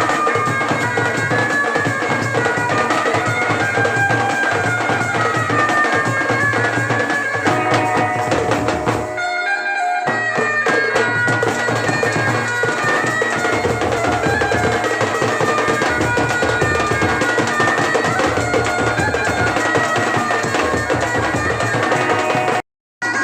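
Live wedding band music: a loud reed wind instrument plays a sustained melody over steady drumming. The drums drop out for about a second midway, and the sound cuts to silence for a moment near the end.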